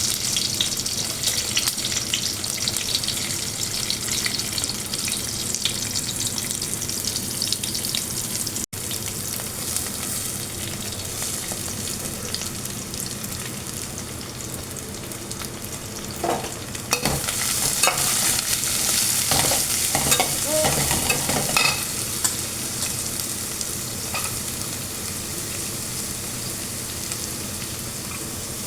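Millet noodles sizzling as they are stir-fried in a pan, a steady hiss, with a spatula scraping and knocking against the pan in a run of strokes past the middle.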